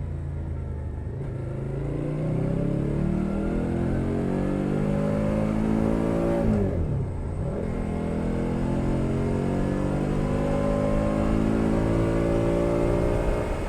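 Suzuki SV650's 645 cc V-twin with a LeoVince Nero exhaust accelerating, its pitch climbing steadily. A quick gear change comes about six and a half seconds in, then it pulls up through the revs again.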